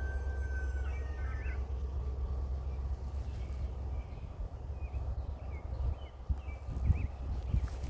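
Birds calling outdoors: a held whistled note and short chirps come and go over a steady low rumble, with a few dull thumps near the end.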